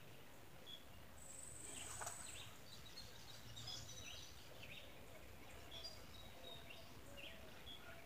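Faint outdoor ambience with scattered distant bird chirps, and a thin, very high trill lasting about a second, starting a little over a second in.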